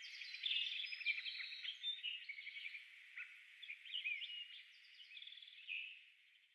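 Birdsong: a run of quick, high chirps and trills, several overlapping, fading out near the end.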